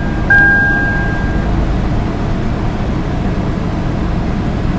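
2002 Toyota 4Runner engine idling steadily, just started after fresh oil and a new oil filter, run briefly to circulate the new oil. A steady high tone sounds for about the first second.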